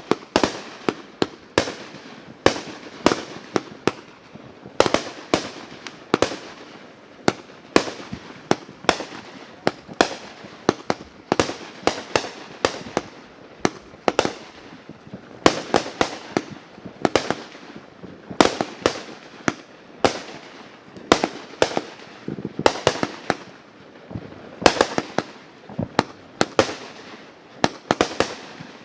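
Fireworks going off in rapid succession: sharp bangs and pops, several a second, with no pause.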